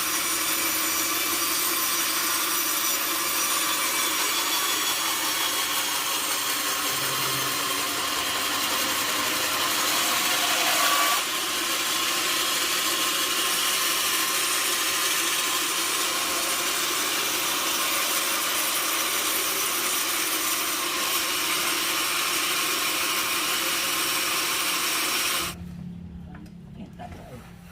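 Sawmill saw cutting lengthwise through a log, a steady loud hissing cut with a faint whine, that stops suddenly near the end, leaving a low hum.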